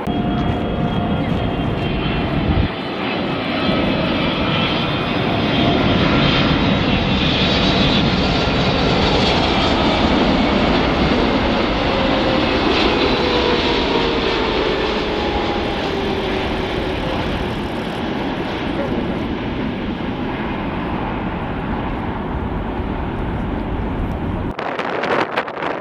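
Jet airliner's engines rumbling loudly as it passes, their whining tones falling steadily in pitch as it goes by; the sound cuts off abruptly near the end.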